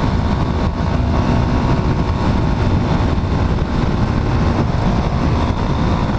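Yamaha XT250's single-cylinder four-stroke engine running steadily at cruising speed, mixed with wind rush on the helmet-mounted camera.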